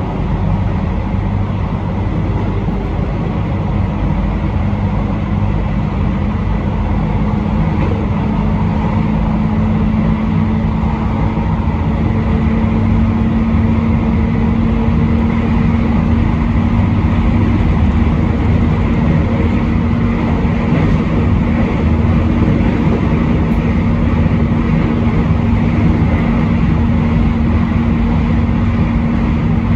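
Train in motion heard from the front of the passenger car: a steady rumble of wheels on rail with a hum that rises slightly in pitch and gets gradually louder as the train gathers speed.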